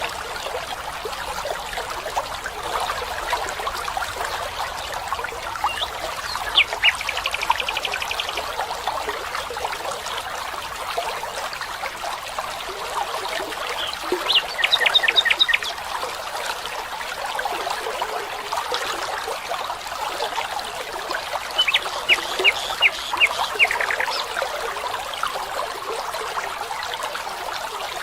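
Water trickling and babbling steadily, as in a small stream. A bird calls over it three times, each time a quick run of repeated high notes lasting a second or two.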